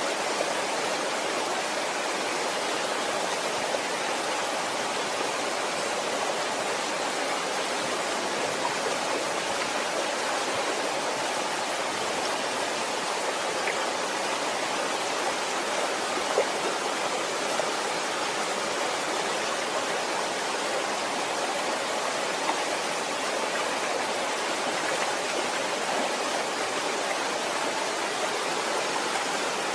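Waterfall: water falling and rushing in a steady, even roar, with an occasional faint splash.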